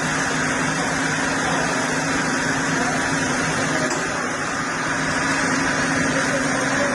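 A heavy machine's engine running steadily, a constant hum with no revving and no knocks.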